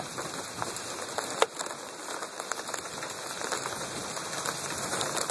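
Light rain at the start of a thunderstorm, sputtering off and on: a steady hiss with scattered drops ticking, and one sharp drop tick about a second and a half in.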